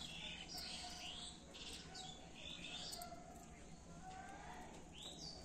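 Faint birds chirping, several short high calls scattered through.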